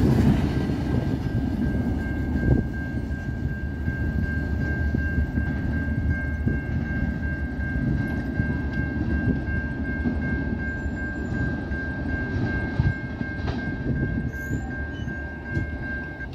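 Tail end of a double-stack intermodal freight train rolling away, its low rumble and wheel clicks fading, while the level-crossing bell rings steadily at a high pitch. The bell cuts off near the end as the crossing gates rise.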